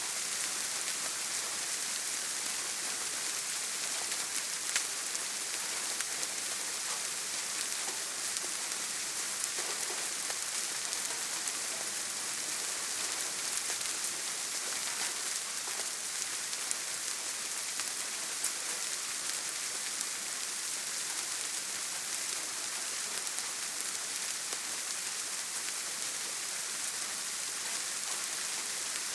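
Steady rain falling on a tin roof: an even hiss with scattered sharp taps of single drops.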